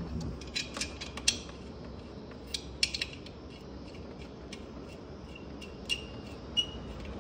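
Small metallic clicks and clinks in short clusters, from a refrigeration gauge hose's threaded fitting and tools being worked onto the R22 service port, which is stubborn to go on.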